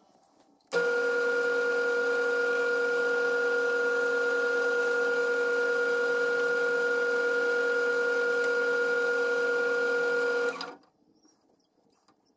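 Harbor Freight wood lathe's motor running at its slowest speed, a steady whine holding one pitch, starting suddenly about a second in and cutting off near the end.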